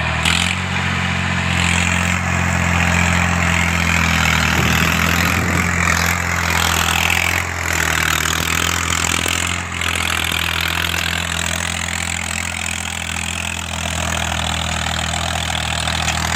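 Diesel farm tractor engine running steadily at a constant speed.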